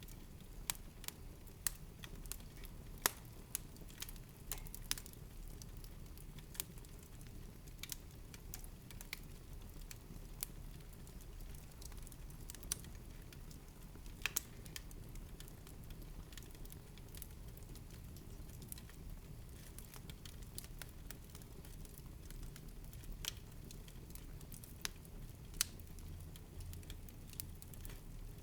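Wood fire burning in a fireplace: logs crackling with irregular sharp pops over a soft, steady low rumble.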